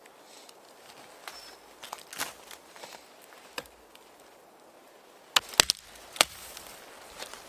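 A series of sharp, irregular knocks and cracks, with a quick cluster of three about two thirds of the way in.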